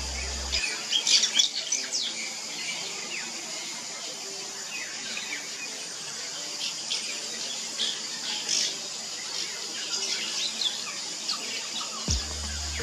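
Fairy martins twittering around their mud-nest colony: many short, high chirps, coming in flurries, over a steady high hiss.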